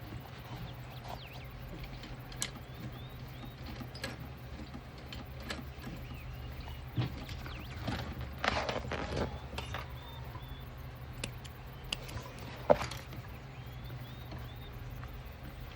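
Hand work on fabric: rustling and handling with scattered light clicks, and one sharper click near the end, over a steady low hum. There is no machine stitching rhythm. Faint bird chirps sound in the background.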